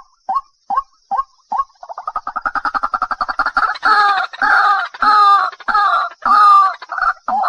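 Waterhen calling: a series of short, evenly spaced notes, then about two seconds in a quick stuttering rattle that builds into loud, harsh calls repeated about one and a half times a second.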